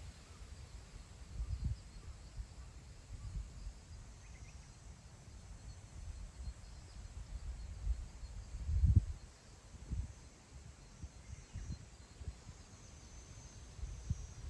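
Wind gusting over open grassland and buffeting the microphone as an uneven low rumble that swells and fades, with the strongest gust about nine seconds in.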